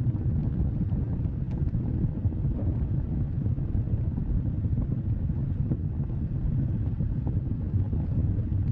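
Wood fire burning with a steady low rumble and a few faint scattered crackles.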